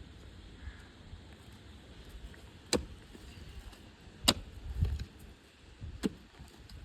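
Three sharp knocks, about a second and a half apart, over a low rumble.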